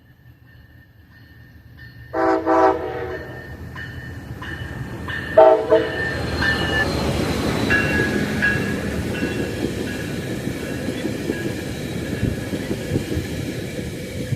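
Passenger train horn sounding twice, a longer blast about two seconds in and a shorter one a few seconds later, as the train approaches; then the train passing with a growing rumble and wheels clacking over the rails.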